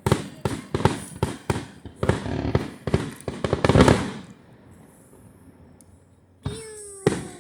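Fireworks going off in rapid succession, a string of sharp bangs about three or four a second, dying away after about four seconds. Near the end come a falling tone and one more bang.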